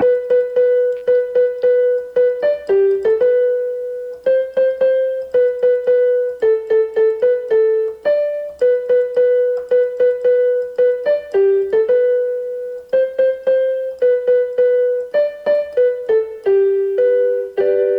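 Electronic keyboard played as a piano, picking out a simple melody one note at a time, with many repeated notes and small steps up and down.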